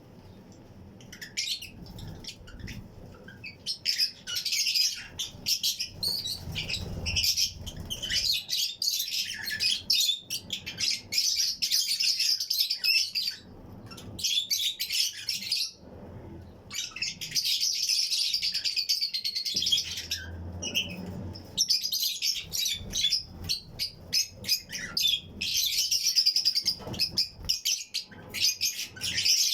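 A colony of Fischer's and lutino lovebirds chirping, many calls overlapping in a dense high twittering, with short lulls about halfway through.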